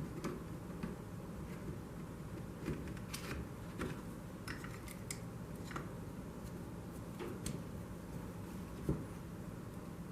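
Scattered small clicks and light taps of tools and parts being handled during disassembly, over a steady low hum.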